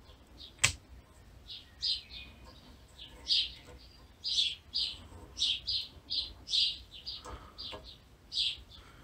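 A small bird chirping over and over, short high chirps about every half second with brief gaps. There is one sharp click just under a second in.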